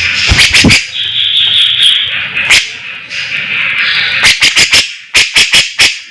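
Songbird song from a bird-tutoring recording: loud, sharp, clicking chip notes over a continuous buzzy chatter, with quick runs of about five notes in half a second in the second half.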